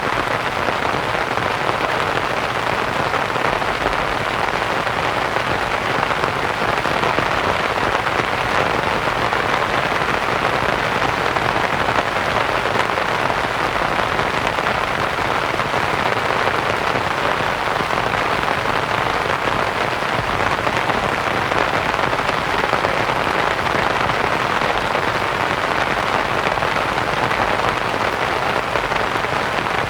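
Steady rain on tent canvas blended with white noise: a dense, even patter with no changes.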